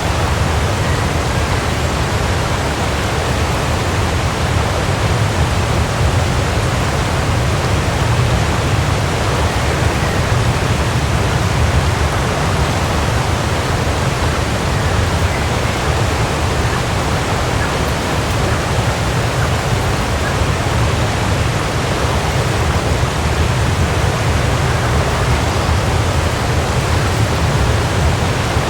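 Waterfall: a steady, even rush of falling water with a deep low rumble.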